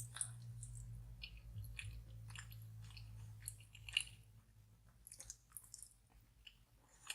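A person chewing soft, chewy rice cakes (tteokbokki) close to the microphone: faint, irregular wet mouth clicks and smacks, thinning out over the last few seconds.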